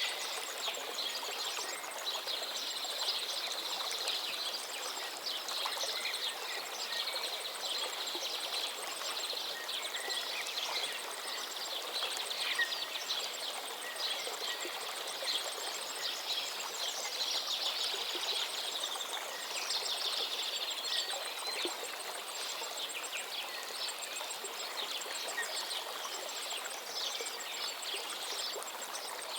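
Running stream or small waterfall with many songbirds chirping and trilling over it, and a faint high, rapid repeated ticking, like an insect, in the background.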